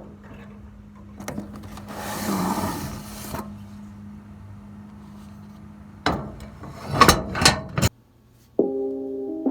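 A shipping package being handled and opened: a click, then a scraping rustle lasting about a second and a half, then a few sharp knocks and scrapes. After a brief drop-out, keyboard music starts near the end.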